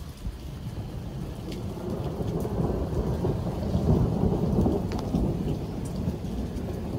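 Rain falling, with scattered sharp drop ticks. About halfway through a deep rumble swells up, peaks and fades again over a few seconds.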